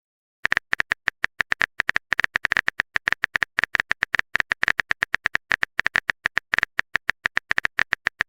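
Keyboard-typing sound effect: a rapid, uneven run of short clicks, about eight to ten a second, starting about half a second in.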